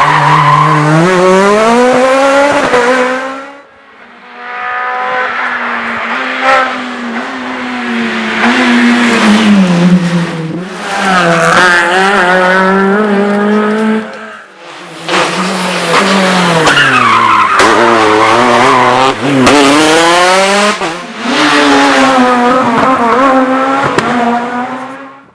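Rally cars driven hard, engines revving up and dropping through gear changes and braking, with tyre squeal. Several separate passes are cut together, with abrupt changes about 3.5, 14 and 21 seconds in.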